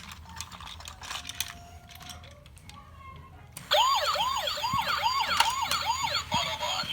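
Battery-powered toy police car's electronic siren, a rapid wailing whoop, about three rises and falls a second, that starts abruptly about halfway through and breaks into a denser warbling electronic sound near the end. Before it, faint clicking from the toy.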